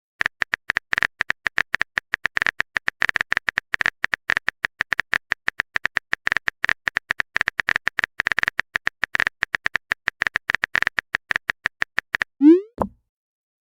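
Text-typing sound effect: a rapid, irregular run of short high clicking beeps, as letters of a chat message appear, stopping about twelve seconds in. It is followed by a short rising pop, like a message-sent sound.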